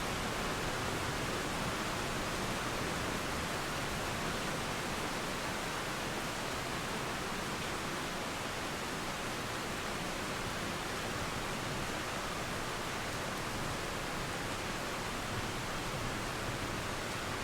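Steady rainfall mixed with a flowing river, an even hiss that holds level throughout.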